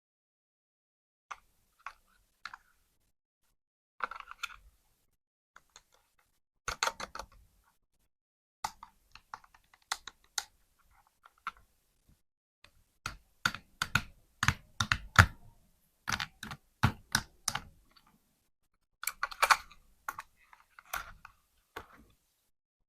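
Irregular sharp plastic clicks and taps with short rustling bursts, from a toy truck and its packaging being handled during unboxing. The clicks come thick and fast in the middle stretch.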